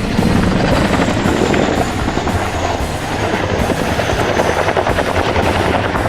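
Boeing Chinook HC2 tandem-rotor helicopter flying a display pass, its rotors making a loud, rapid, steady chop with a faint high turbine whine over it.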